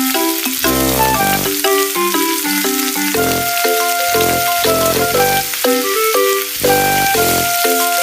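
Steak sizzling and frying in a pan, a steady hiss under background music that plays a melody over bass notes.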